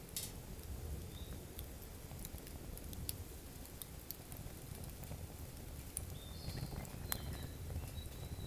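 Wood campfire crackling, with sharp irregular snaps and pops over the low rumble of the flames.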